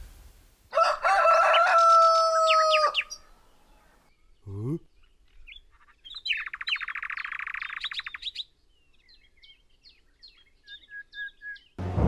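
Cartoon small-bird sound effects: a long held call, a quick rising swoop, a rapid buzzing trill, then a string of short tweets.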